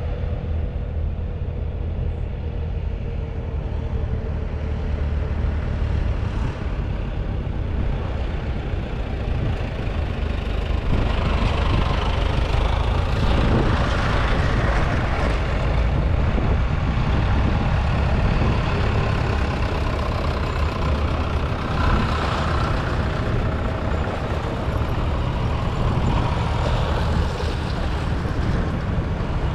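Vintage tractor diesel engines running steadily under way, getting louder about ten seconds in.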